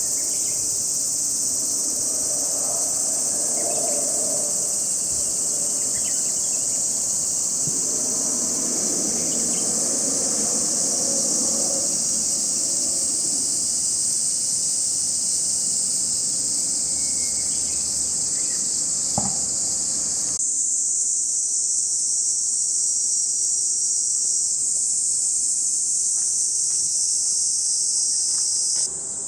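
Loud chorus of cicadas calling: a continuous, high-pitched, sizzling drone that holds steady throughout.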